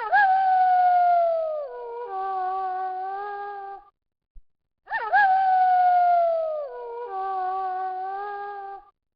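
Wolf howling: each howl swoops up quickly, slides slowly down, then drops to a lower held note with several overlapping pitches before stopping. The same howl repeats identically about five seconds later.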